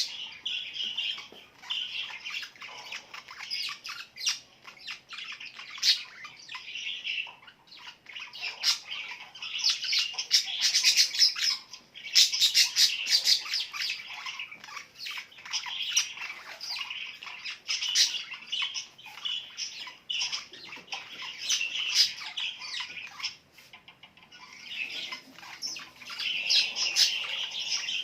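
Many small birds chirping and squawking together in a dense, rapid chatter, with brief lulls about a quarter of the way in and again near the end.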